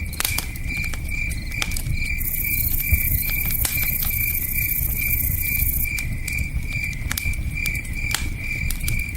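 Campfire crackling with scattered sharp pops, over crickets chirping steadily at about three chirps a second and the low rush of a river.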